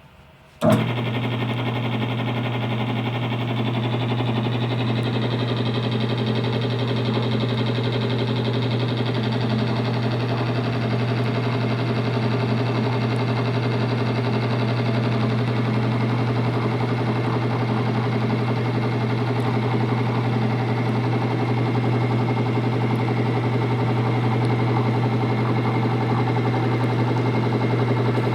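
Electric motor of a metal-on-metal friction wear-test rig switching on abruptly about a second in, then running steadily. A strong low hum carries a rough, gritty metallic grinding from the loaded test contact.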